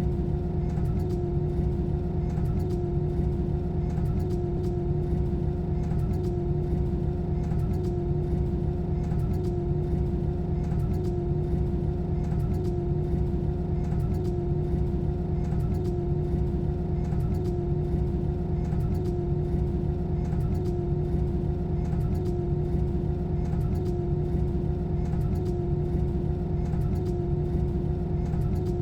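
Airbus A320 cabin noise in cruise: a steady low roar of engines and airflow with a constant droning hum.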